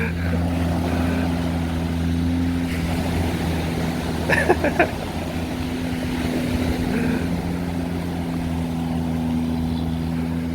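Steady, even drone of a motorboat engine running, with brief voices about four and a half seconds in.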